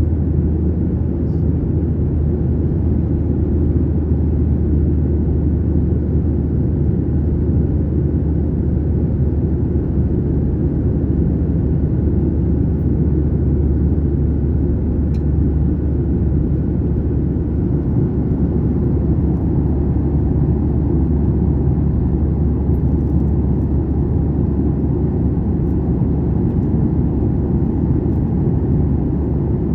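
Steady low drone of an airliner's passenger cabin: jet engines and airflow heard from inside, unchanging throughout.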